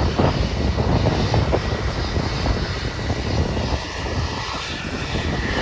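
Jet airliner engines running: a steady rushing noise with a faint high whine.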